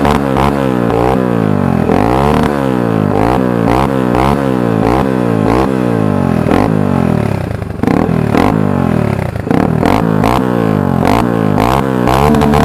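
2001 Honda 300EX ATV's single-cylinder four-stroke engine, fitted with an FMF full exhaust, revved over and over. Each blip sends the pitch up and lets it drop back. Around the middle it briefly falls toward idle, then the revving picks up again.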